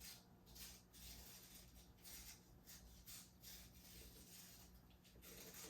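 Near silence, with faint, irregular rustling and scraping of hands working thread and paper on a homemade kite.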